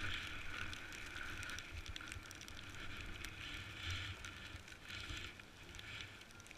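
Snowboard sliding down a snowy slope, its base and edges hissing on the snow and swelling in several surges as it turns, with wind buffeting the microphone in a low rumble.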